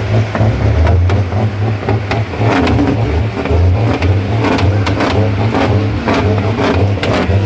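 Truck's diesel engine running under way as it is driven through the gears, its pitch rising and falling with the revs.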